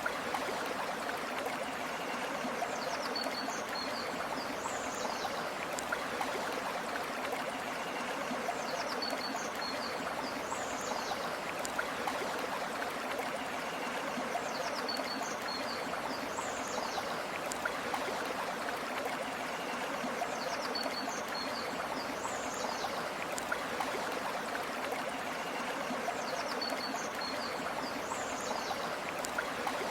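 Stream water flowing and babbling steadily. A brief high chirping call, like a bird's, recurs about every six seconds.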